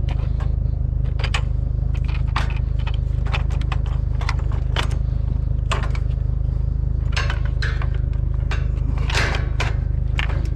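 Scrap pieces clanking and scraping against each other and the truck bed as they are shoved into a full pickup bed, a dozen or so irregular knocks, over the steady low hum of an idling engine.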